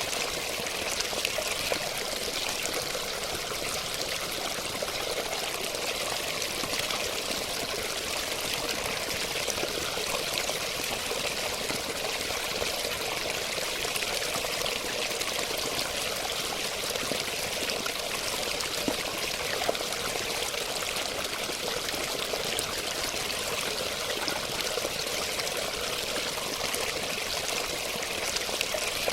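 Running water, a steady even flow with no pauses or changes.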